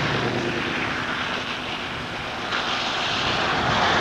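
A vehicle passing close by: a steady rush of engine and tyre noise that dips slightly midway and swells again near the end.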